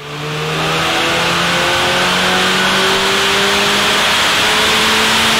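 Saab 9-5 Aero's 2.3 litre turbocharged engine under load, its pitch steady for a moment and then climbing slowly as the car accelerates, over steady road and wind noise.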